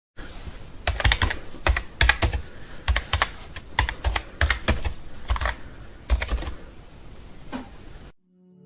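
Typing on a computer keyboard: irregular runs of key clicks that stop about eight seconds in. Just before the end a low, steady musical tone begins to fade in.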